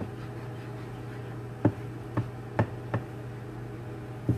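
Microwave oven running with a steady low hum, and five light knocks or taps in the second half.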